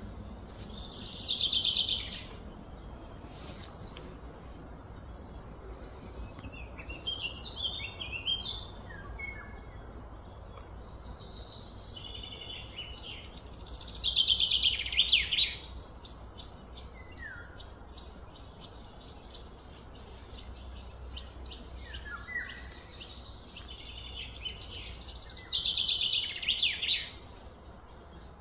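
Birds singing: a loud phrase of rapid notes falling in pitch, about two seconds long, comes three times, with scattered shorter chirps in between.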